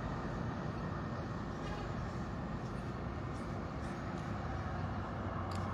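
Steady low rumble of road traffic in the background, with no distinct nearer sound.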